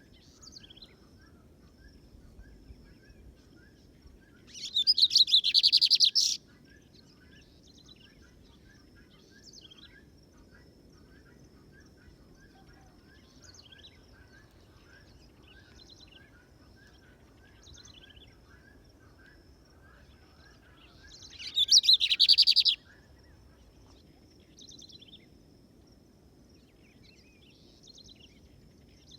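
Lined seedeater (bigode) singing two loud, rapid trilled phrases, each lasting about two seconds, roughly a quarter of the way in and again past two-thirds. Between them come fainter scattered bird chirps over a steady thin high whine.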